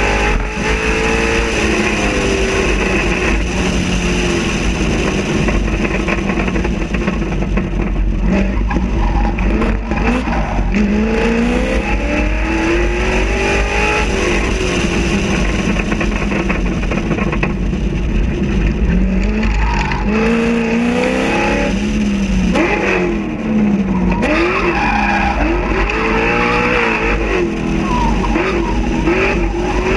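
Chevrolet Corvette Z06 V8 engine accelerating hard and backing off again and again, its pitch climbing through each gear and dropping between, over steady low road and wind noise.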